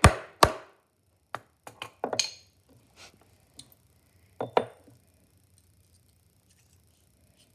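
Hammer blows cutting bolt holes in a cork gasket: one sharp strike right at the start, then lighter, irregular taps over the next few seconds and two louder knocks close together about four and a half seconds in.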